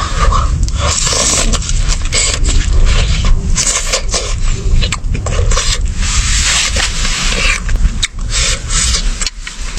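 Utensils scraping and rubbing in a cooking pot in a series of short, irregular strokes as food is served, over a low rumble.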